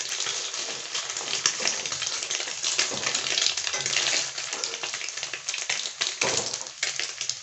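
Paneer cubes sizzling in hot oil in a steel kadhai, with a flat metal spatula scraping and tapping against the pan as they are stirred and scooped out. The sizzle is a steady hiss, broken by many small clicks and scrapes.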